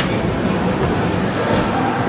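Mercedes SL63 AMG's 5.5-litre twin-turbo V8 running at a steady, even level, with low engine rumble under road noise.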